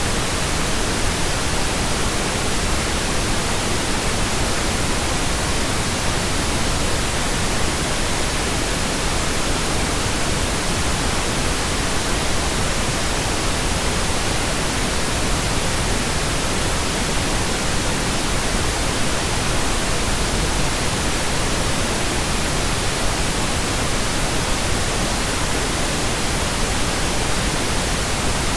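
Steady, computer-generated pink noise: an even, unchanging hiss spread across all pitches.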